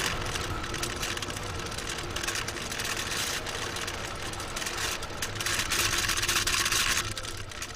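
Falcon 9's first-stage Merlin engines firing during ascent: a loud, steady rocket rumble with crackle, whose higher part drops away suddenly about seven seconds in.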